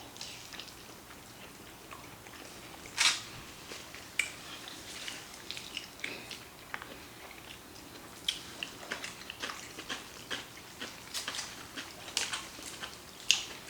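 Close-up eating sounds: chewing, slurping and lip smacks from people eating black bean noodles (jjajangmyeon), with a louder smack about three seconds in.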